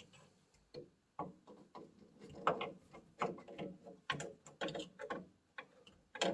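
Irregular metallic clicks, clunks and knocks of oil-furnace burner parts being handled and worked back into place by hand.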